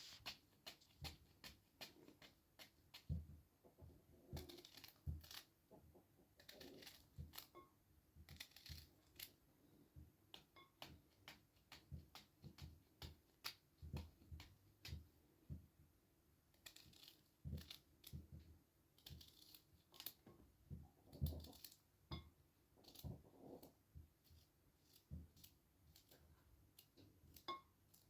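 Faint, irregular clicks and soft knocks, many short sharp ticks with occasional duller thuds, like objects being handled and set down close by.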